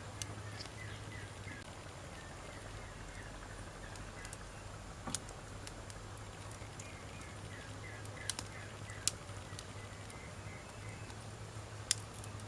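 Wood campfire burning with a soft steady crackle and a few sharp, scattered pops, the loudest about five seconds in and near the end. Faint runs of short chirps sound in the background twice.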